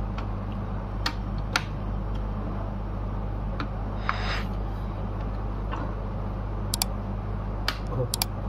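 Scattered sharp plastic clicks and taps as a laptop's back cover is fitted back on, with a short rustle about halfway through, over a steady low electrical hum.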